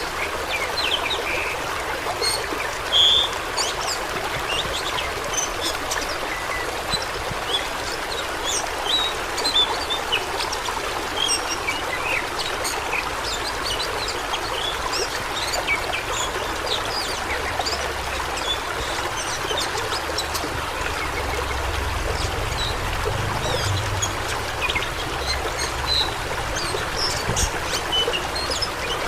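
Fast-flowing water rushing steadily, with many small splashes and trickles over the rush.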